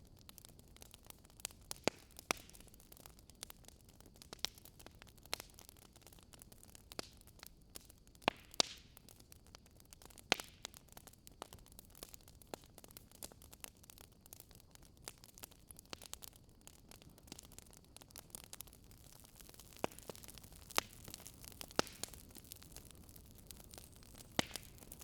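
Wood fire crackling: irregular sharp pops and snaps of burning wood, some louder than others, over a faint steady hiss.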